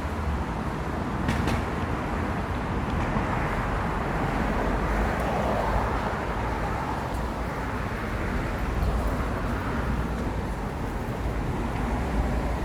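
Steady road traffic noise from cars and buses passing on a city street, an even rumble with no single vehicle standing out.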